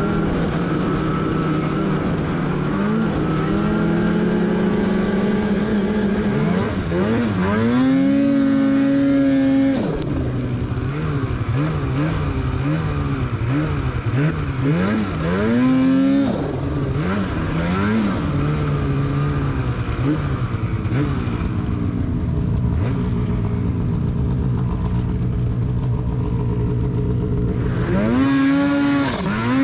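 Polaris Patriot Boost turbocharged two-stroke snowmobile engine on its stock muffler, revving up and down under riding. It climbs to high, held revs three times: about a quarter of the way in, around the middle, and near the end.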